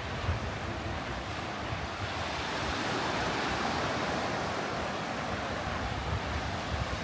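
Ocean surf: a wave breaks and washes up the beach, swelling to its loudest about three to four seconds in and then easing off. Wind buffets the microphone with a low rumble.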